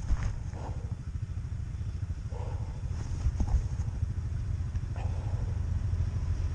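Snowmobile engine running under way, a low steady drone that slowly grows louder, with a few short knocks from the ride.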